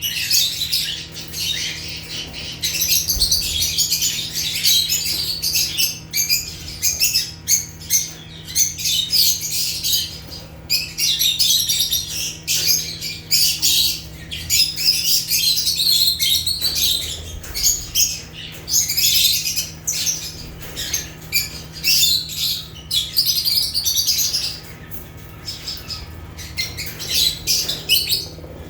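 A flock of African lovebirds chattering: dense, rapid, high-pitched chirps and squawks overlapping almost without pause, thinning out near the end. A steady low hum sits underneath.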